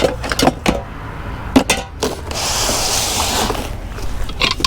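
Scrap items being handled and moved about: a series of sharp knocks and clicks, then about a second of hissing, scraping rustle a little after two seconds in.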